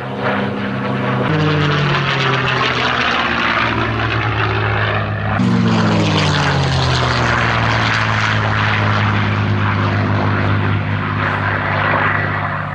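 North American P-51D Mustang's Packard Merlin V-12 engine and propeller running at speed in a low fly-past. The engine note drops in pitch about a second in and again about five seconds in as it passes.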